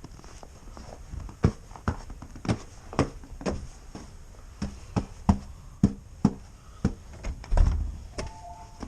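Footsteps: a sharp step about every half second, irregular, with a heavier low thump a little before the end.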